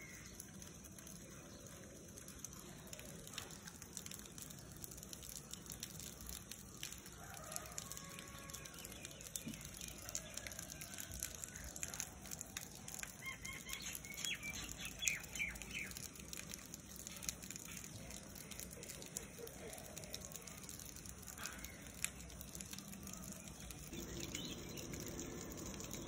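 Faint outdoor bird calls, a few short calls scattered through the middle, over a steady background hiss with occasional small clicks.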